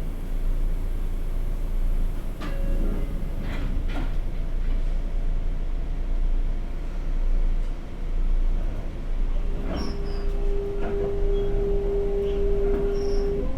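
Inside a Sotetsu 8000 series car with Hitachi GTO-VVVF control, standing at a station: a steady low rumble with a few knocks about three seconds in, fitting the sliding doors closing. From about ten seconds in, the inverter sounds a steady tone as traction power comes on for departure, and the tone begins to rise right at the end.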